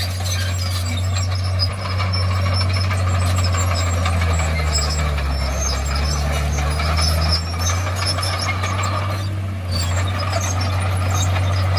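Bulldozer's diesel engine running steadily under work, its pitch shifting briefly around the middle.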